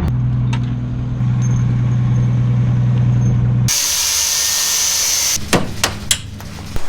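A car engine running at steady revs, cut off abruptly by a loud burst of air hiss lasting under two seconds, followed by a few sharp knocks.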